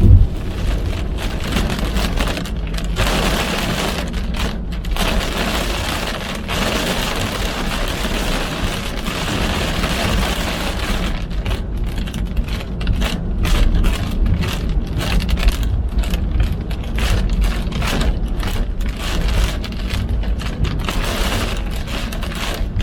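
Car driving in heavy rain: a steady low road and engine rumble under the hiss and patter of rain on the car. A single loud thump right at the start.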